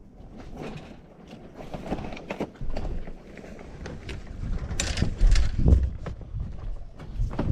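Wind buffeting the microphone aboard a sailboat, with scattered knocks, clicks and rattles of gear and rigging; a strong gust comes about five seconds in.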